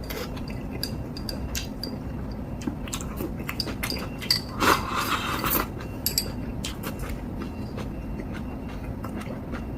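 Ramen being eaten close to the microphone: chewing and scattered clicks of utensils against a bowl, with a longer slurp of noodles about five seconds in.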